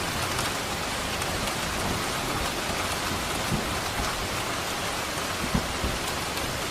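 Steady, dense rain falling and pattering on a surface, with a few louder single drops striking now and then.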